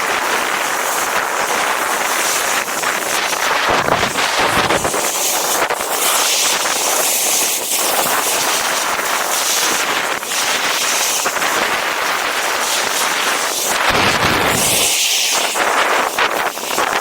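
Strong wind buffeting the microphone over a steady rushing hiss, with deeper rumbling gusts about four seconds in and again near the end.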